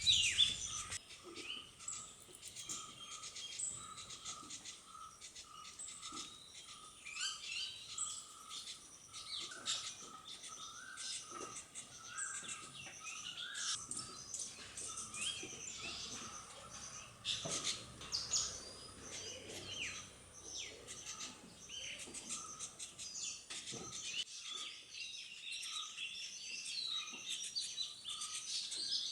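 Several birds chirping and calling in quick, overlapping high notes, over a soft note repeated evenly about twice a second.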